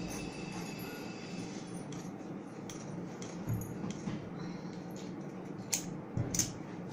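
Tailor's scissors snipping through buckram and fabric: a few sharp metallic snips and clicks, the clearest in the second half, over a steady low room hum.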